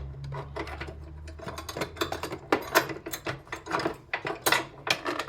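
Hand tools and metal parts being handled at a car battery: a run of irregular clinks, clicks and knocks that starts about a second and a half in, over a low hum that fades out around the same time.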